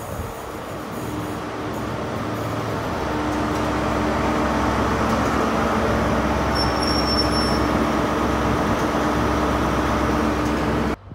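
Class 43 HST diesel power car running close by, its engine hum steadily growing louder as the power car draws alongside. A brief high squeal comes about seven seconds in. The sound cuts off sharply near the end.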